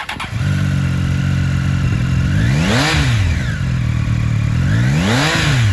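Triumph Street Triple R inline three-cylinder motorcycle engine firing up and idling steadily, then blipped twice with the throttle, each rev rising and falling back to idle about two and a half seconds apart.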